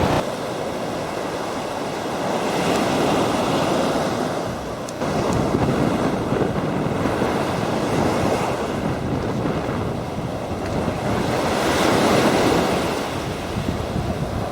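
Sea surf washing on the shore, swelling and easing a few times, with wind rumbling on the microphone.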